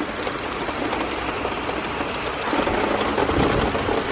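Rain falling steadily with many fine drop ticks, and wind rumbling on the microphone that grows louder from about halfway through.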